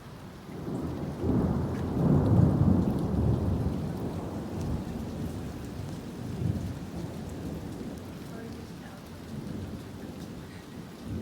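Thunder rumbling over steady rain: it builds about a second in, peaks a second or two later, then rolls away slowly with a smaller swell near the end.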